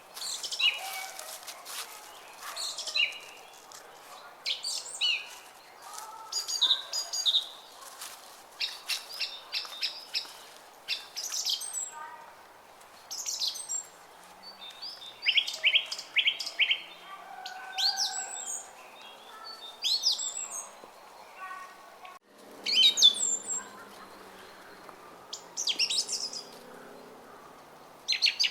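Small songbirds chirping and trilling in many quick, overlapping calls over the steady trickle of a brook. About two thirds through the sound drops out for an instant.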